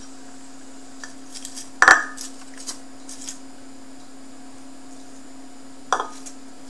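Kitchen utensils clinking against a serving dish as fried food is arranged: a loud clatter about two seconds in, a few light taps after it, and one more clink near the end, over a steady hum.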